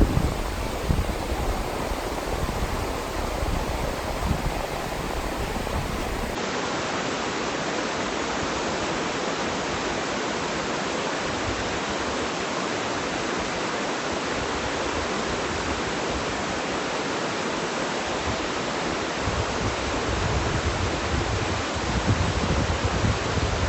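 Steady rushing water noise, with no distinct drops or splashes, from rain or flowing stream water. About six seconds in the sound changes abruptly as the low rumble drops away, and the rumble returns near the end.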